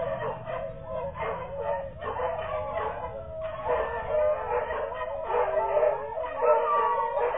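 Beagle puppies whining and howling, several high wavering voices overlapping without a break.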